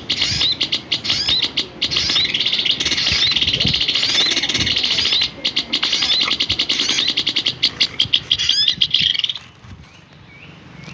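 A songbird singing a fast, continuous run of high chirps and trills, which stops abruptly about nine seconds in.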